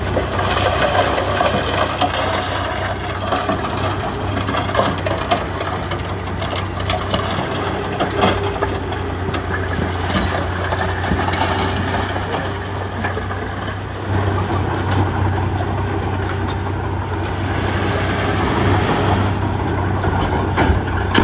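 A heavy diesel engine running steadily, with scattered metallic clanks and knocks.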